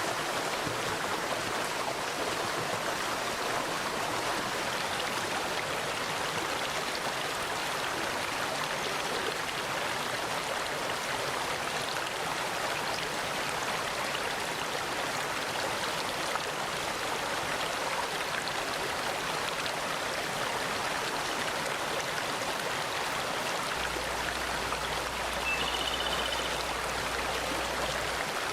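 Mountain stream rushing steadily over rocks, an even wash of water noise. Near the end a bird gives a brief high chirp.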